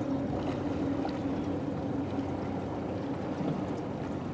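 A rowing shell moving under oar: a steady low hum over a wash of water noise, with a few faint clicks.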